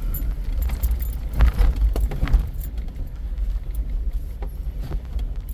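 Jeep crawling over a rough, rocky dirt trail: a steady low engine and drivetrain rumble with many small clicks, rattles and knocks of the vehicle jolting over the ground, busiest about one and a half to two and a half seconds in.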